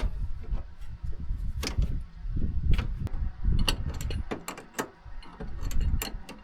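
Irregular metallic clanks, clicks and knocks with low thumps, as of metal parts being handled and worked by hand on farm machinery.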